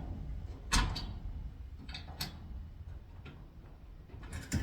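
A few separate sharp metal clicks and taps, the loudest about a second in and another about two seconds in, as a quarter-inch bolt is worked into a tight hole in garage door lock hardware.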